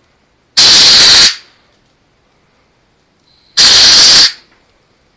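Two loud bursts of compressed-air hiss, each under a second and about three seconds apart, as the compressed-air cylinders of a lawn-tractor front-end loader are worked through their valve.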